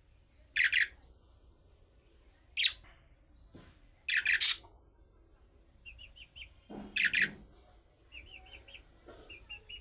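Budgerigar calls: four loud, sharp calls spaced a couple of seconds apart, with runs of soft, quick chirps in between.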